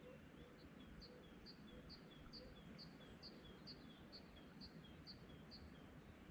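Faint songbird singing a two-note phrase over and over, about two phrases a second, starting about half a second in and stopping near the end, over a low, steady background rumble.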